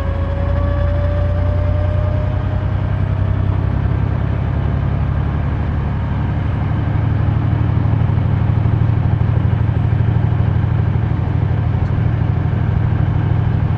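Semi truck's diesel engine running steadily under way, heard from inside the cab as a low drone. A faint whine rises slightly in pitch over the first few seconds, then fades out.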